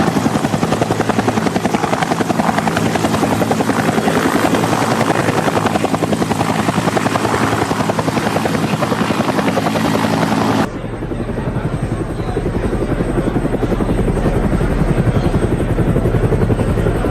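Helicopter rotor chopping in a fast, even beat. About ten seconds in the sound switches abruptly to a duller, deeper version of the same beat.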